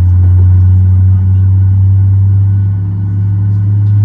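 Boeing 737 MAX 8's CFM LEAP-1B engine running at idle, heard from inside the cabin as a loud, steady low hum that dips briefly about three seconds in.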